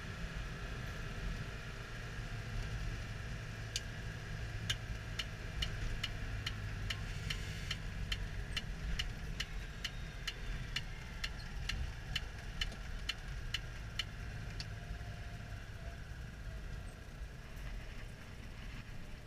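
Citroën Dyane 6's air-cooled flat-twin engine running steadily, heard from inside the cabin while driving. From about four seconds in to about fifteen, the turn-signal flasher ticks about twice a second, then stops.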